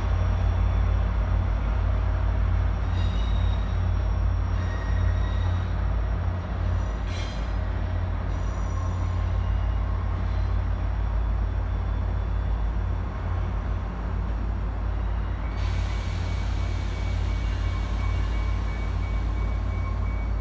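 Caltrain diesel locomotive and its passenger train moving off, a steady low rumble. About fifteen seconds in, a hiss comes in over it.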